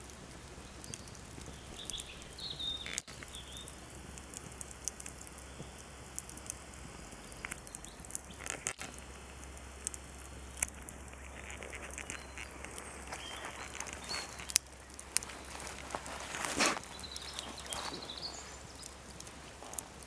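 Wood fire crackling, with irregular small pops and one louder crack about three-quarters of the way through. A bird chirps faintly now and then.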